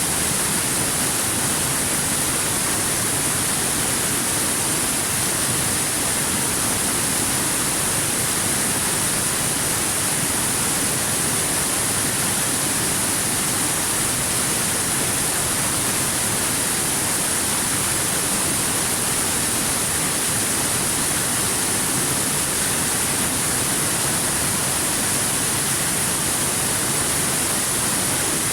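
Waterfall: a steady, unbroken rush of falling water, an even hiss that never changes.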